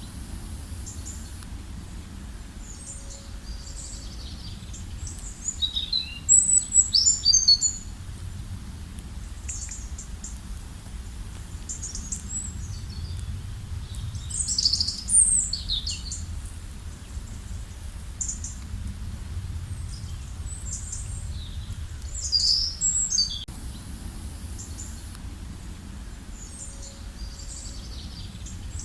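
Small birds chirping in scattered bursts of quick, high notes, with the busiest bursts about a quarter of the way in, midway and shortly before the end, over a steady low rumble.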